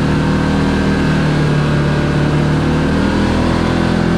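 Kawasaki KRX4 1000 side-by-side's engine running at a steady trail speed, a constant drone with only slight changes in pitch.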